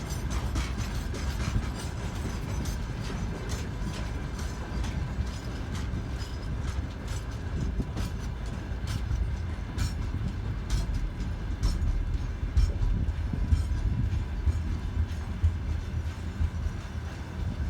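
Freight train rolling past: a steady low rumble of wagons, with wheels clicking over rail joints throughout and a faint steady high tone.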